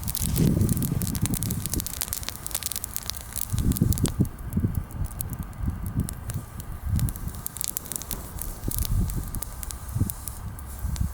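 Bonfire of freshly pruned green branches burning, with frequent sharp crackles and pops and recurring low rumbling swells. The wood is mostly green, so the fire burns weakly.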